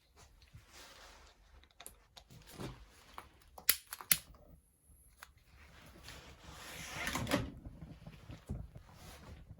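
Handling noises: scattered clicks and taps, two sharp clicks about four seconds in, then a rubbing or scraping noise that swells and peaks about seven seconds in.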